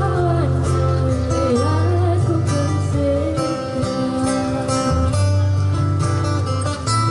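Live street music: acoustic guitar strummed over a steady, deep bass line, with a singing voice over it for the first couple of seconds.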